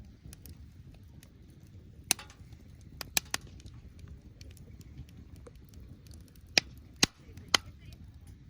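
Firewood burning in a secondary-combustion fire pit, crackling over a low steady rumble. There is a sharp pop about two seconds in, a quick cluster of small pops around three seconds, and three loud pops about half a second apart near the end.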